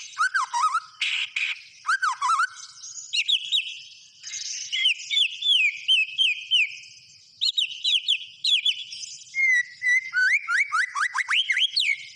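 White-rumped shama (murai batu) in full, vigorous song: fast runs of clear whistled notes sweeping up and down in varied phrases, with two short lulls about four and seven seconds in.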